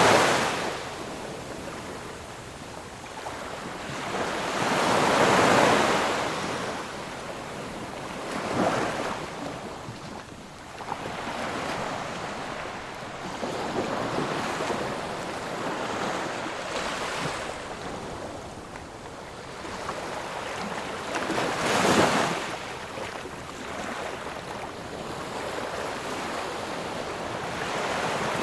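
Ocean surf: waves breaking and washing in, one after another, each swelling into a loud rush and ebbing away, the biggest about five seconds in and again near the end of the second third.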